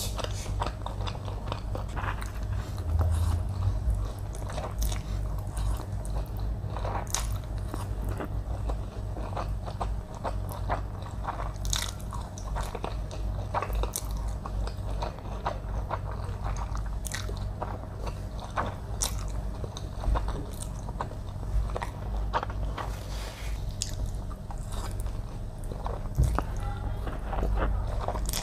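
A person chewing and biting noodles and chicken close to the microphone: a steady run of crunches and short wet clicks of eating.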